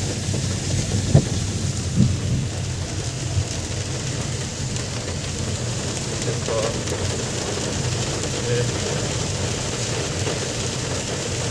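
Steady rain falling on a car, heard from inside the cabin, with a low rumble underneath. Two brief thumps stand out about one and two seconds in.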